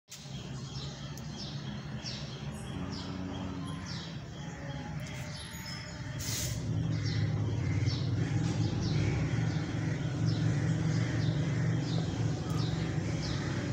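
A bird chirping over and over, short falling chirps about twice a second, over a steady low hum that grows louder about halfway through.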